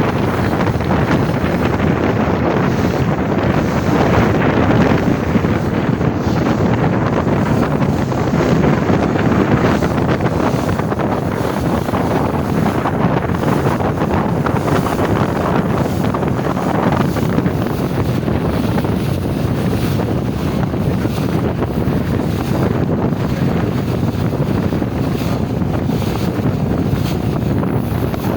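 Wind buffeting the microphone over a steady rush of water and boat noise from a ferry under way, unchanging throughout.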